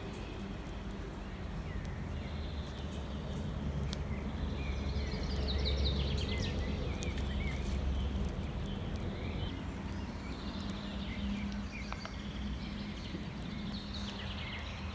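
Small birds chirping and twittering outdoors over a steady low rumble that swells in the middle and eases off again.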